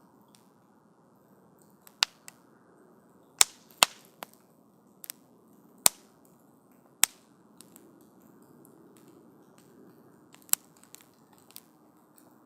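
Wood campfire crackling: about six loud, sharp pops scattered among fainter ticks, over a soft, low hiss of burning.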